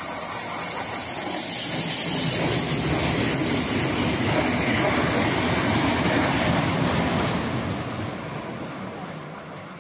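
Locomotive-hauled passenger train passing at speed: a loud rush of wheels on rail and air. It swells within the first second, holds steady, and fades over the last couple of seconds.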